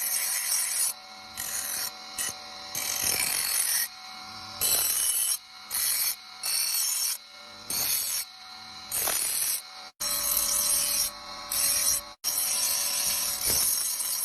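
A freshly forged steel chopping-knife blade being sharpened by hand: about a dozen separate rasping strokes, each under a second long, with short pauses between them.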